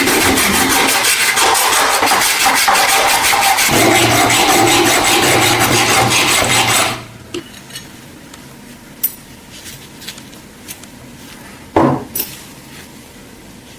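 An electric power tool grinding or sanding against the workpiece with a fast, even pulsing, stopping abruptly about halfway through; afterwards a few small clicks and one sharper knock of the piece being handled.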